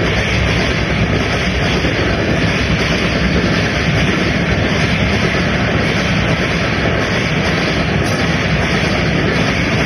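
Passenger train's coaches rolling past on the track: a steady, loud rumble and rush of wheels on rails, unchanging throughout.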